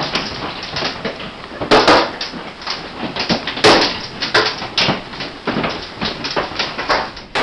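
Hailstones pelting hard surfaces in a dense, irregular clatter of hits, with louder cracks about two seconds in and again near the middle.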